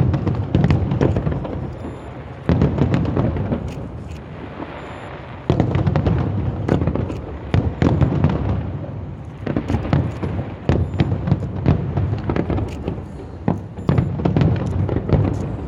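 Fireworks display: aerial shells bursting with deep booms, a big burst every two to three seconds, each trailing into a rumble, with dense crackling throughout.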